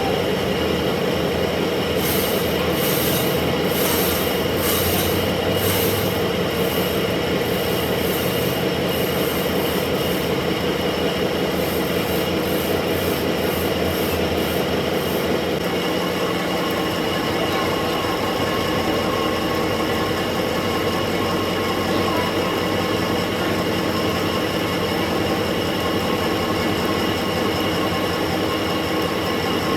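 Lathe turning a steel conveyor drum roller: steady machine running with a metallic scraping squeal from the cutting tool. A pulsing high hiss repeats for the first half and stops about halfway through.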